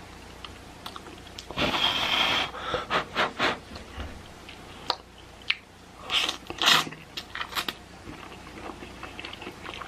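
Instant ramen noodles being slurped and chewed close to the microphone: a longer slurp about one and a half seconds in, then a run of short slurps and wet chewing sounds with small clicks.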